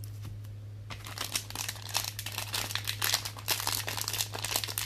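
Plastic crinkling and crackling densely as trading cards and their packaging are handled, starting about a second in, over a steady low electrical hum.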